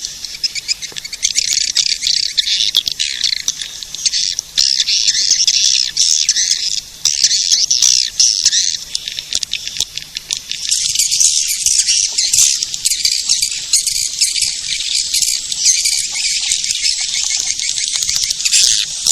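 Swiftlets twittering: a dense, continuous chatter of rapid high chirps, thicker from about halfway through. It is a swiftlet-caller recording, the sound played to lure swiftlets into nesting houses.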